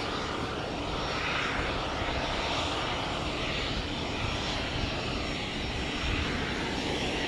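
Engine noise from a fixed-wing aircraft, a loud, steady rush with no breaks.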